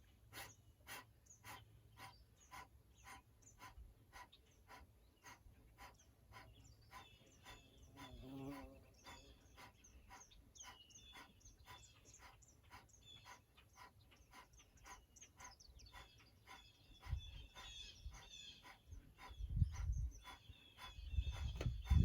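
Kapalabhati breathing: rapid, forceful exhalations through the nose at about two sharp puffs a second, each active exhale followed by a passive inhale. Birds chirp faintly in the background, and low thumps come in near the end.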